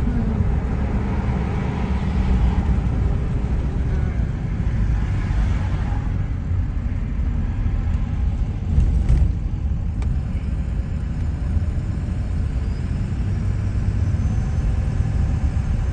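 Steady low road and engine rumble inside a moving car, with one brief bump about nine seconds in.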